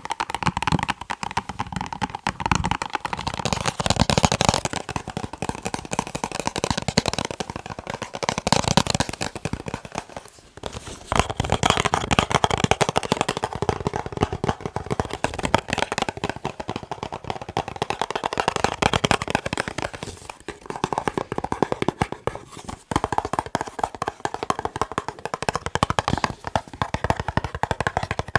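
Fast tapping with the fingers on boxes, a dense, unbroken stream of taps. It drops out briefly about ten seconds in and again near the end of the second third, and the sound of the tapping changes after each break.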